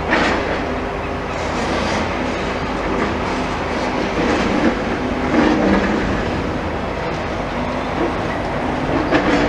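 Demolition excavator running, its engine steady under a continuous clatter of rubble and metal, with a few sharper knocks, one just after the start and another near the end.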